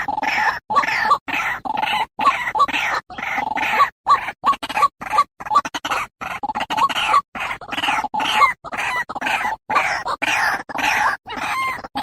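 White-breasted waterhen (ruak-ruak) calling in a fast, even series of short, repeated calls, about two a second, as played for a bird-luring recording.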